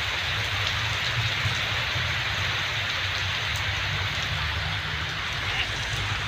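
Heavy rain falling steadily: a dense, even hiss, with a low steady rumble underneath.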